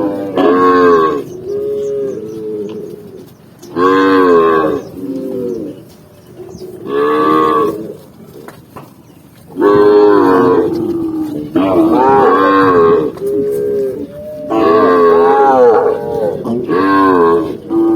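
Cattle mooing, one loud, drawn-out moo after another every two to three seconds, with some calls running together.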